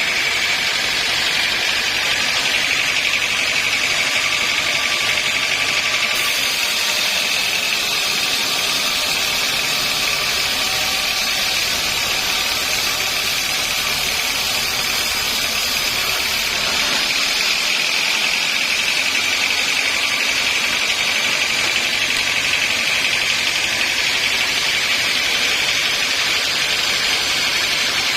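Sawmill saw running steadily, a high whine over constant mechanical noise, with a harsher hiss for about ten seconds in the middle.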